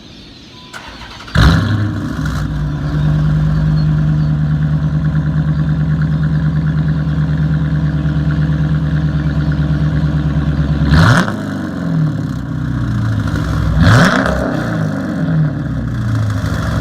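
2014 Dodge Challenger R/T's 5.7-litre Hemi V8, straight-piped with catalytic converters but no mufflers or resonators, starting up with a loud flare about a second in and settling into a steady idle. It is revved twice briefly in the second half.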